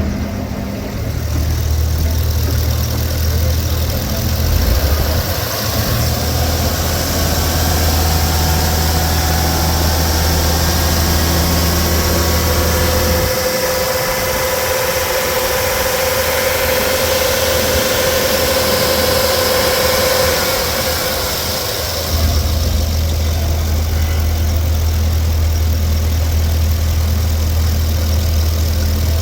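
2011 GM/Chevrolet heavy-duty 6.0L gasoline V8 running at a steady idle. About thirteen seconds in, it is brought up to higher revs and held there with a slowly rising pitch for about nine seconds, then drops back to idle.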